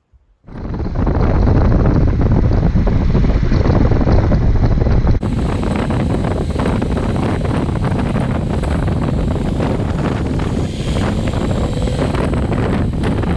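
Wind buffeting the microphone on a moving motorcycle, a loud steady rumble that starts suddenly about half a second in, with the engine running under it.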